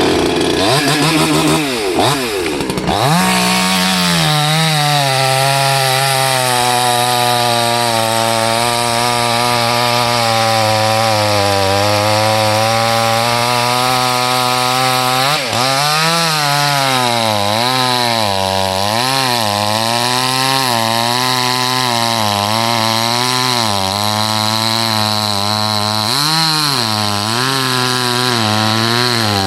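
Salem Master 6220F 62cc two-stroke chainsaw run up to full throttle and cutting through a thick log. It revs up over the first few seconds and holds steady. In the second half the engine pitch sags and recovers again and again as the chain bites into the wood.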